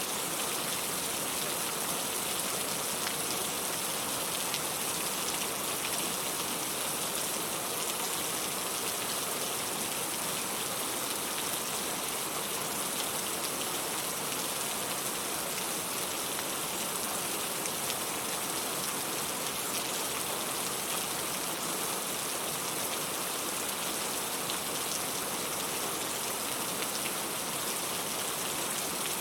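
Steady rain falling: an even hiss of rain with many fine drop ticks, unchanging throughout.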